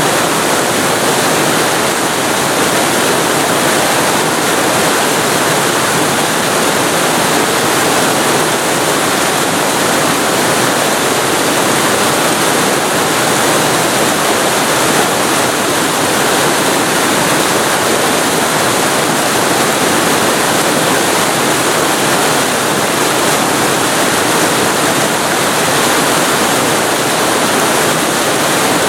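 Waterfall recorded very close to the falling water: a loud, steady rush of water with no changes.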